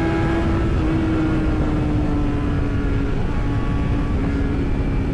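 Superbike engine running at high, steady revs, its pitch easing down slightly over a few seconds, under a heavy rush of wind noise.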